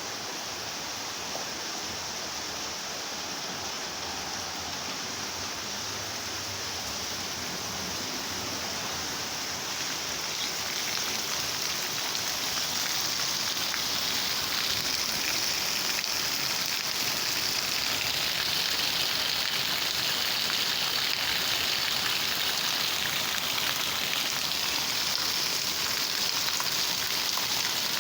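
Rain falling steadily, an even hiss that grows louder from about ten seconds in as the downpour gets heavier.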